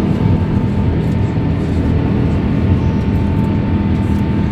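Steady jet engine noise from a departing Airbus A350-900's Rolls-Royce Trent XWB turbofans, with a thin steady tone over it, mixed with heavy wind buffeting the microphone.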